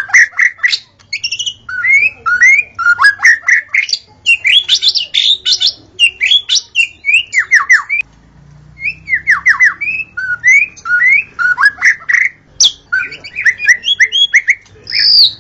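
White-rumped shama (murai batu) singing a rapid, varied song of whistled notes, quick downward sweeps and chattering phrases, with a brief pause about halfway through.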